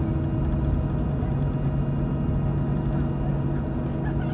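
Cabin noise of a Boeing 737-700 with its CFM56-7B jet engines running: a steady low hum over a continuous rumble.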